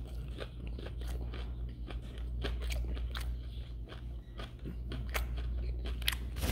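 A person chewing a mouthful of crispy fried chicken breast with the mouth closed, the breading crunching in quick, irregular crackles, over a steady low hum.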